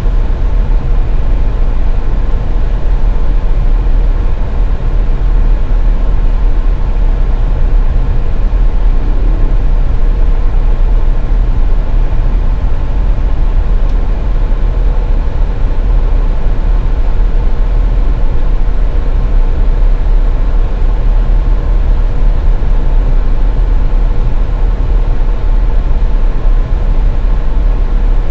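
Car driving on a snow-covered highway: a steady low rumble of road and engine noise, with a faint steady hum over it.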